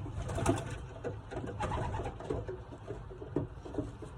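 Racing pigeons cooing, with scattered short clicks and rustles.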